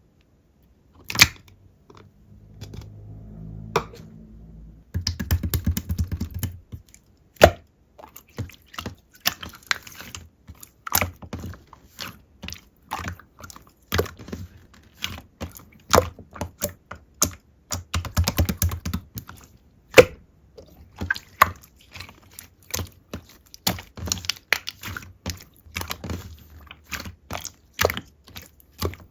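Clear slime being squeezed, poked and stretched by hand, making a run of irregular sticky clicks and small pops, with a low rumbling squish in the first few seconds.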